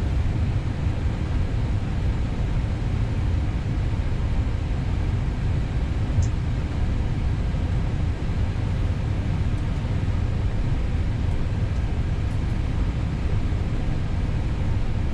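Steady low rumble of an Airbus A320neo, heard from inside the cockpit as it taxis with the engines running.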